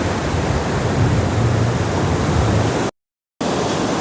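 Sea surf washing on the beach, a steady rush with a low rumble. About three seconds in, the sound cuts out to silence for about half a second, then the surf resumes.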